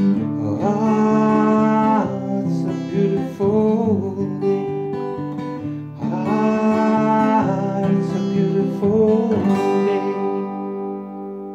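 Strummed acoustic guitar with a sung vocal line held without clear words: the end of a song. Near the end the last chord rings on and fades.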